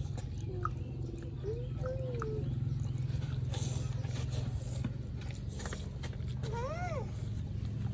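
Puppies whimpering: a few short, thin whines, then a louder whine that rises and falls about six and a half seconds in, over a steady low hum.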